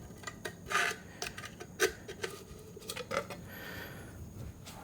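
Lug nut covers being popped off a wheel, a series of sharp clicks and clinks at irregular intervals.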